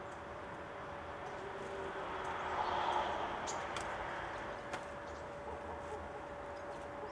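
Outdoor background hiss with a steady low hum, swelling to a louder rush about three seconds in, with a few faint short bird calls and light clicks.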